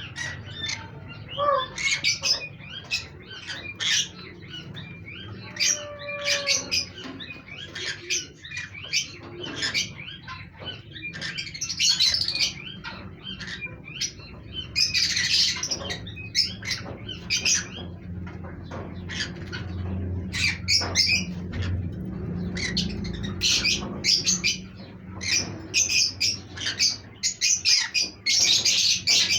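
Pet green conures squawking and chirping, many short harsh calls in quick irregular succession, over a faint steady low hum.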